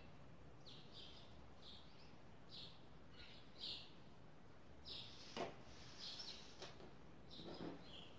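Faint bird chirps, short and high, repeating about once a second over quiet room tone. A couple of brief, slightly louder handling sounds come in the second half as knit fabric is folded on a table.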